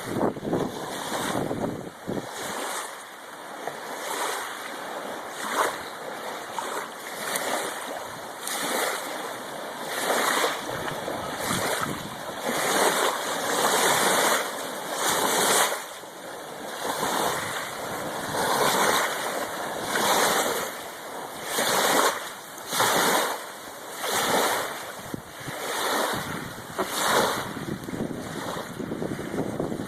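Strong wind buffeting a phone's microphone in gusts that swell and fade every second or two, over the rush of surf.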